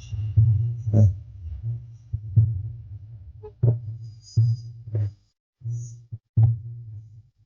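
Loud music from a large parade sound system, a heavy bass line with sharp drum hits over it. The sound cuts out briefly a few times near the end.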